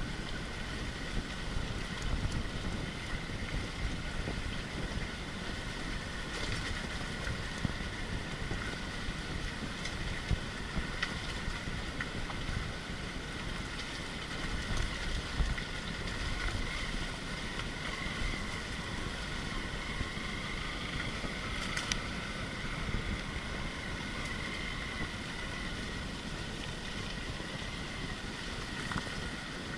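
Steady wind rumble on the microphone, with a continuous high-pitched drone running above it.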